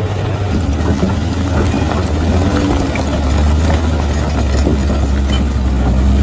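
Bulldozer's diesel engine running steadily with a deep low drone, with scattered short knocks and clanks from the working machine; it gets slightly louder toward the end.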